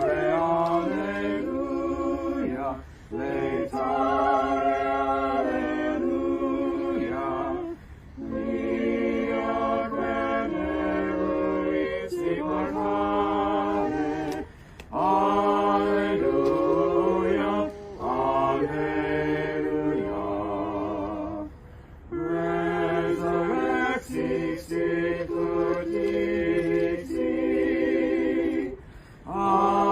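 Choral singing without instruments: voices holding sustained chords in long phrases, with a brief break between each phrase.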